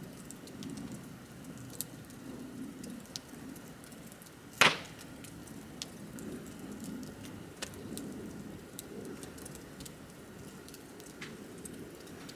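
Wood bonfire crackling: a steady low flame rush with scattered small snaps and ticks, and one loud, sharp pop about halfway through.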